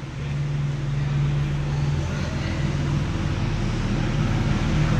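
A car engine running at low revs with a steady, deep hum that grows gradually louder as the car approaches.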